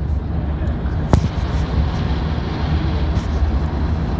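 Steady low rumble of a vehicle on the move, with a single sharp click about a second in.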